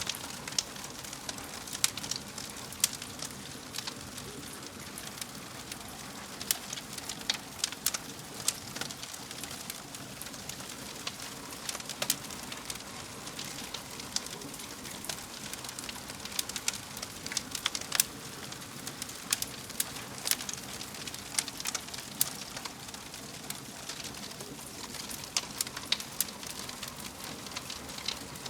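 Wood fire burning in a fireplace, crackling and popping with sharp irregular snaps over a steady hiss.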